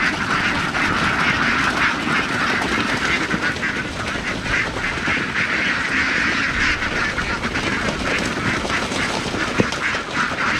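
A large flock of birds calling at once: a dense, continuous chorus of many short overlapping calls.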